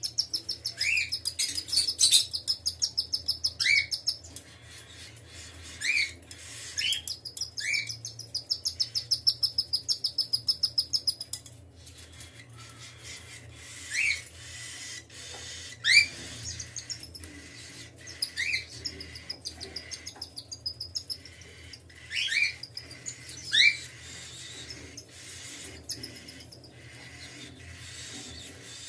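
Cockatiels calling: two long spells of fast, high, repeated chirping in the first half, and short rising chirps scattered throughout.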